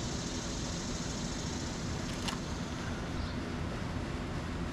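Steady low background rumble with no clear pitch, and a single short click a little over two seconds in.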